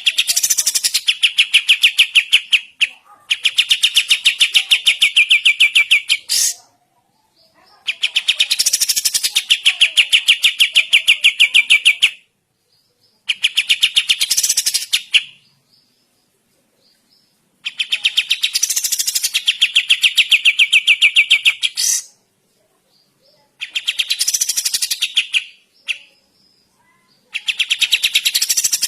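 A kapas tembak songbird singing in loud bursts of very fast, evenly repeated chattering notes, each burst lasting a few seconds, with short pauses between them.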